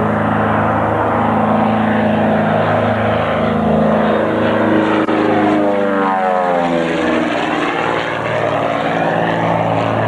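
Britten-Norman BN-2A-20 Islander's twin 300 hp Lycoming six-cylinder piston engines and propellers running at display power, a steady drone whose pitch drops about six seconds in.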